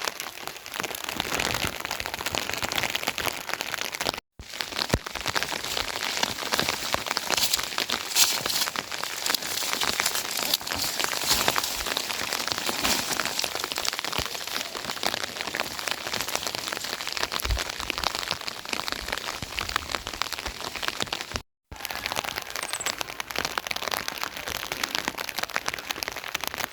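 Steady rain, a dense hiss of many small drops striking surfaces. It cuts out for a split second twice, about four seconds in and again just after twenty-one seconds.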